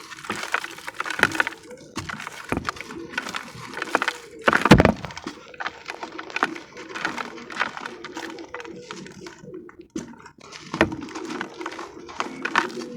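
Dried sand-and-cement discs cracking and crumbling under the hands, a run of scattered sharp cracks with the loudest about five seconds in.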